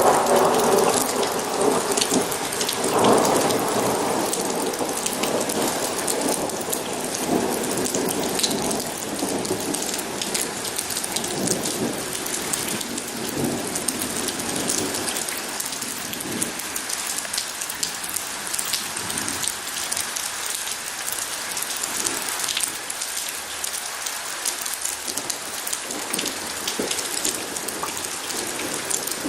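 Steady rainfall with a roll of thunder rumbling loudest in the first few seconds, then dying away over about ten seconds while the rain keeps falling.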